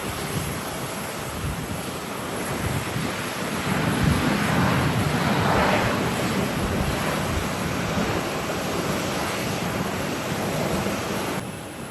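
Airbus A321neo's CFM LEAP-1A jet engines as the airliner passes on landing: a steady jet rush that swells to its loudest about halfway through and then eases off, mixed with gusty wind on the microphone. The sound drops suddenly near the end.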